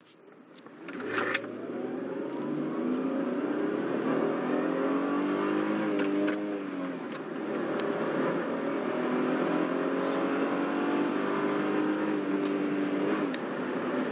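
Car engine accelerating from a start: it rises in pitch, drops about halfway through and again near the end at gear changes, then climbs again. It is presented as a worn-out car with skipping gears.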